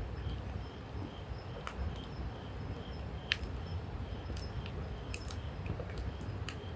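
Wood campfire burning: scattered sharp crackles and pops over a low steady rumble. A faint, regular high chirp repeats about twice a second in the background.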